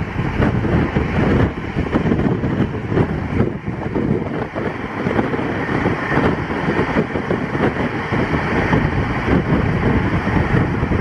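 An express passenger train running at speed, heard on board: a steady, dense rumble of wheels on rails with rushing air.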